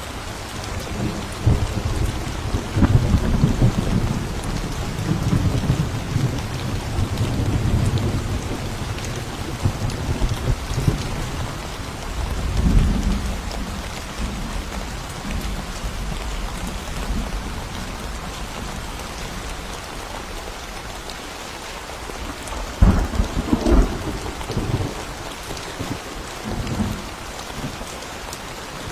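Thunderstorm: steady heavy rain with rolling thunder. Long low rumbles build over the first several seconds and return around thirteen seconds in, and there are sharper, louder thunder cracks a little over twenty seconds in.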